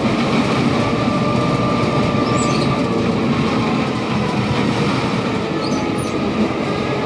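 Moving freight train: a steady rolling rumble and noise, with a faint thin wheel squeal.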